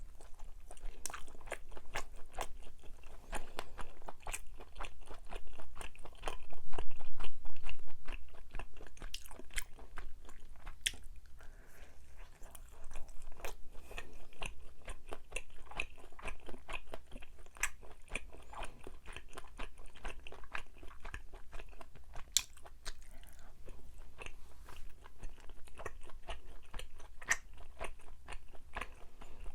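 Close-miked chewing of soft, chewy Korean rice cakes (tteok): dense, irregular wet smacks and sticky clicks of mouth and teeth, louder for a couple of seconds about six seconds in.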